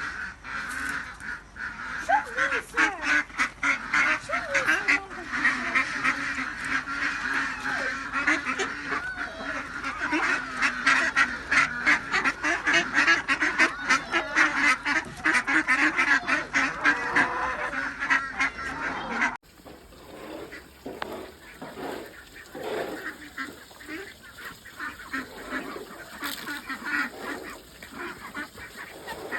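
A flock of farmyard ducks and geese calling, many calls overlapping in a dense din. About two-thirds through, an abrupt cut gives way to a quieter, sparser stretch of calls.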